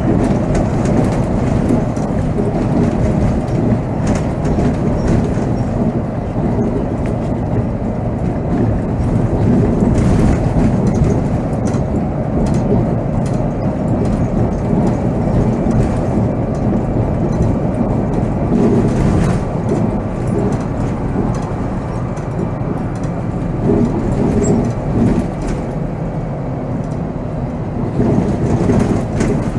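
Volvo B7R coach under way, heard from the driver's seat: steady engine and road rumble with scattered rattles and knocks from the bodywork.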